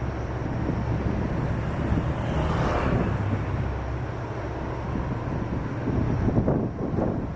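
Steady low engine rumble with a rushing swell about two and a half seconds in.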